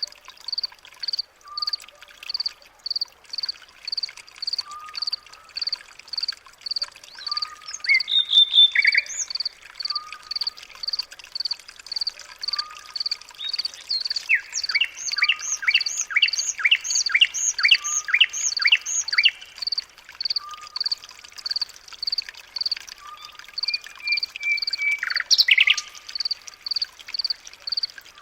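Birds calling and singing: a high chirp repeats steadily about twice a second, with a short lower note every couple of seconds. In the middle comes a burst of quick, falling whistled notes.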